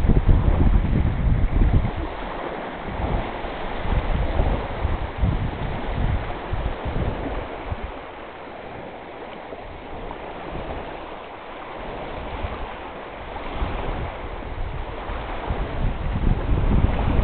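Strong wind gusting over open water, buffeting the microphone in heavy low surges over a steady rush of waves. The gusts ease for a few seconds midway and build again near the end.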